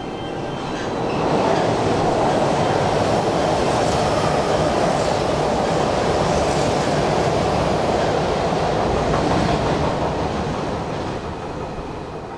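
Electric commuter train running along the track, its rumble swelling about a second in, staying loud for several seconds, then fading near the end.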